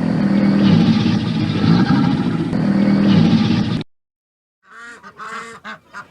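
A loud, dense sound with a low hum cuts off sharply just before four seconds in; after a brief silence, geese start honking in short repeated calls.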